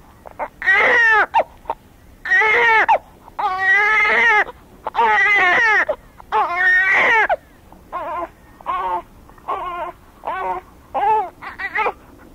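Baby-style crying voiced by an adult playing a newborn: about five long, loud, wavering wails, then shorter, quieter sobbing cries about one a second.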